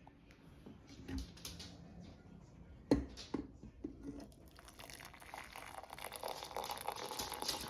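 Quiet crinkling and rustling, with a few light knocks in the first half, building into a denser crackling rustle over the last few seconds.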